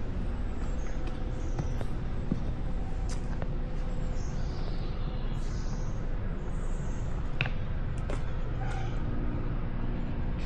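Small birds chirping with short high calls and quick downward-sliding notes, over a steady low rumble and a faint hum.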